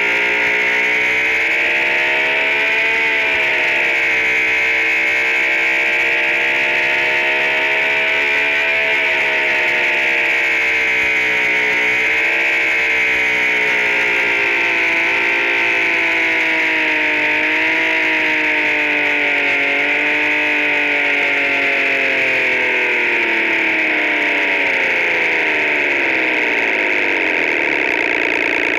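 Synthesized imitation of a Honda NSX's C30A V6 engine note, its pitch rising and falling gently several times as if the revs wander, then dropping steadily over the last few seconds as the revs fall off. A steady high hiss sits over it throughout.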